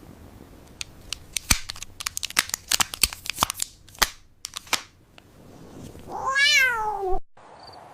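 A rapid, irregular run of sharp clicks or taps, then a domestic cat meows once, a call of about a second that rises and then falls in pitch.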